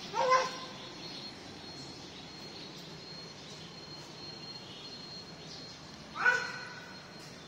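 A bird calling twice, about six seconds apart, each a short, loud, harsh cry. A thin steady high tone runs underneath.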